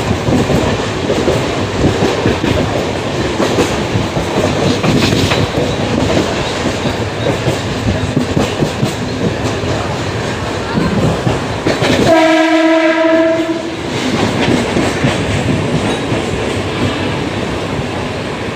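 Mumbai suburban local train running, with a steady rumble and wheels clattering over the rails. A single train horn sounds about twelve seconds in and lasts about a second and a half.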